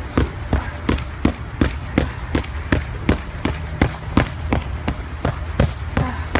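Boxing gloves landing punches in a quick, fairly steady run of sharp smacks, about three a second.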